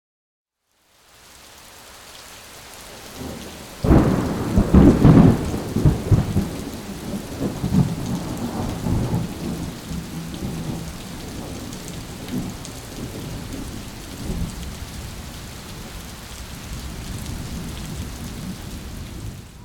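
Thunderstorm: steady rain fades in after about a second of silence, then a loud crack of thunder about four seconds in rumbles on for several seconds before settling back into the rain.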